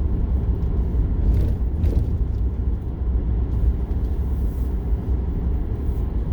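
Steady low rumble of a vehicle driving, road noise heard from inside.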